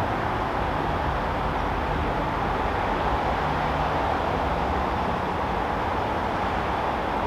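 Steady backyard ambient noise: a constant rushing hum with a low rumble underneath, unchanging throughout.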